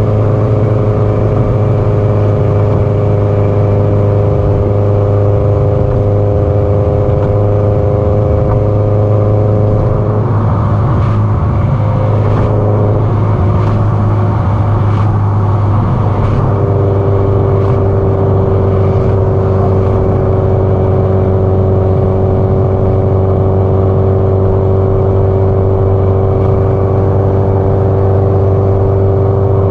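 Subaru Impreza WRX STI (GDB-E) turbocharged flat-four engine running through an aftermarket muffler at a steady cruise. The note wavers for several seconds about ten seconds in, then settles on a steady, lower pitch.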